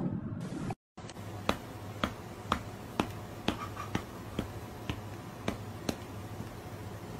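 A steady series of sharp clicks, about two a second, over a faint low hum, starting after a brief silent break about a second in.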